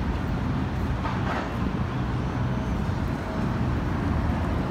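Steady low rumble of vehicle noise outdoors, with no distinct events.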